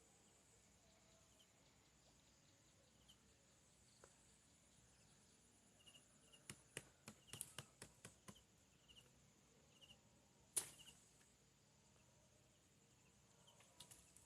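Faint steady drone of insects with small repeated chirps, broken by a run of light clicks and taps partway through and one sharper click a little later.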